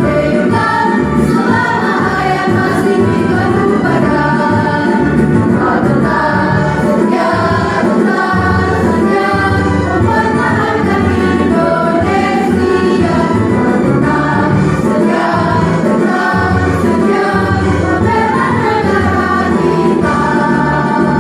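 A high-school choir singing in parts, holding long notes that change pitch step by step, with a steady low musical backing.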